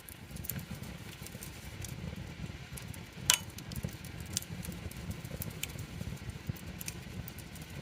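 Wood campfire crackling, with scattered small pops over a low steady rumble and one loud pop about three seconds in.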